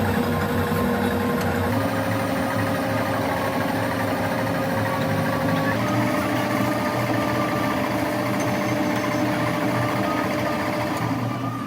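A machine motor running steadily, with a steady whine that steps up in pitch twice, about two seconds in and again about six seconds in.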